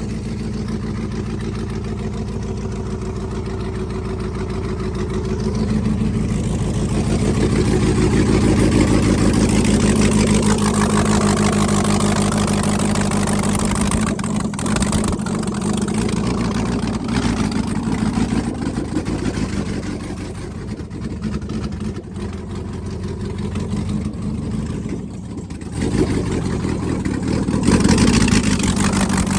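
Freshly rebuilt 5.3L V8 truck engine with a stage 3 camshaft running with no headers or exhaust pipes, its exhaust ports open straight to the air: ridiculously loud. The engine note swells and eases, and picks up again near the end.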